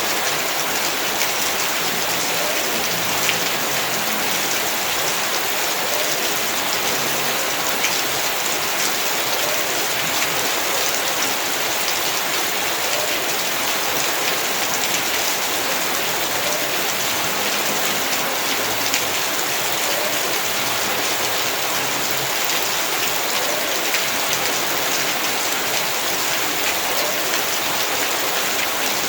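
Heavy rain falling steadily on the ground and surfaces of a yard, a dense even patter with scattered sharper drop hits.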